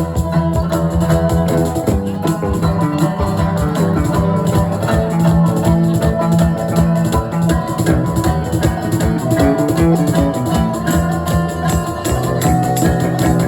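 Live band playing an instrumental passage: guitar over a steady bass, with a shaker or tambourine keeping a fast even beat.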